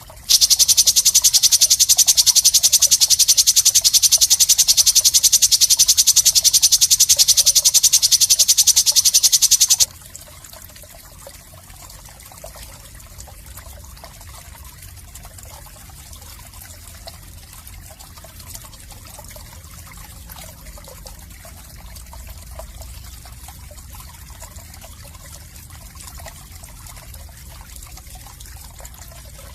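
Recorded harsh filler call from a songbird training track: a loud, high-pitched, rapidly pulsed buzzing trill that cuts off suddenly about ten seconds in. A much quieter trickling, water-like noise follows.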